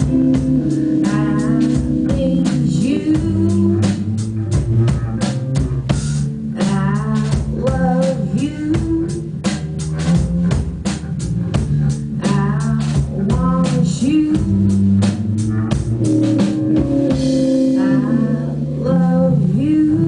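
A band playing: drum kit, electric guitar and bass, with singing.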